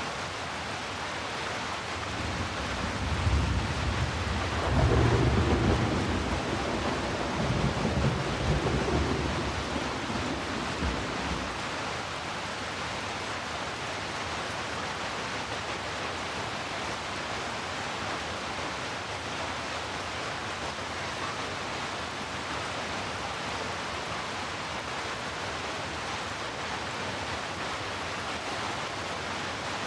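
Steady heavy rain with a deep roll of thunder that builds about two seconds in, peaks around five seconds, and dies away by about eleven seconds.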